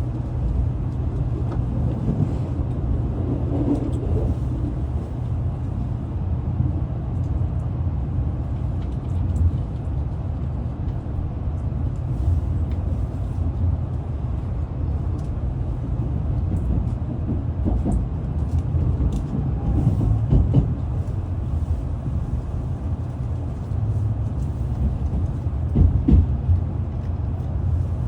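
Steady low rumble of a Tokaido Shinkansen bullet train running, with a few brief knocks near the end.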